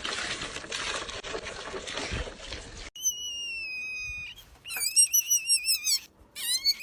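About three seconds of rough noise, then a long, high whistle-like call gliding slightly down, followed by two runs of quick, warbling high-pitched calls from an animal.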